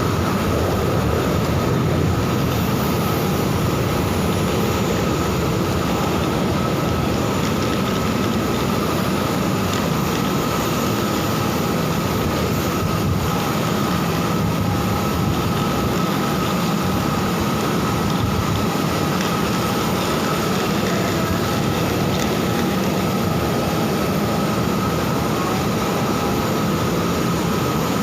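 Steady, loud drone of a parked jet airliner, with a constant high whine over a low rumble.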